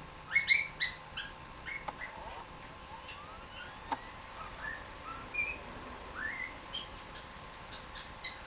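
Cockatiel singing: a string of short rising whistles and chirps, loudest in a quick run of notes about half a second in, then scattered single notes.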